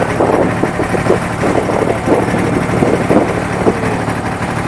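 Boat engine running steadily in a low drone, with people talking over it.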